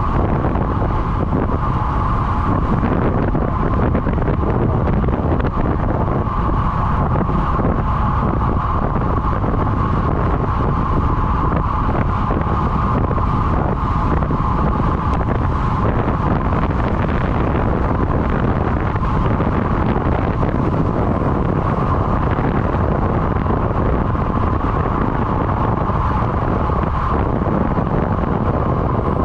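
Steady wind noise buffeting the microphone, with a continuous steady whine running under it.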